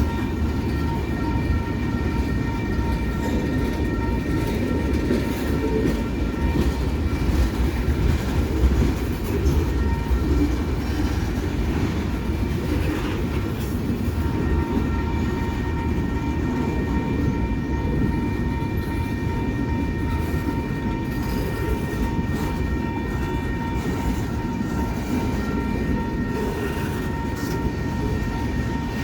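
Train rolling past: a steady rumble of wheels on rail. Thin, steady high tones ring over it, fading out for a few seconds partway through and then returning.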